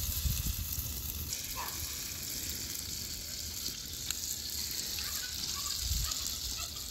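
Grated-potato patties sizzling steadily as they shallow-fry in hot oil in a flat pan.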